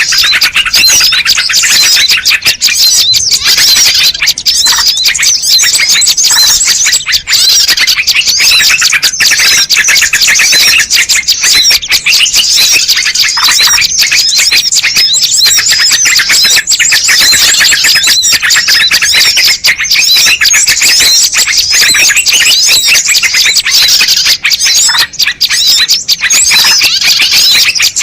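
Bird-lure recording of small birds chirping and chattering in a dense, continuous chorus of rapid, high-pitched calls with no pauses.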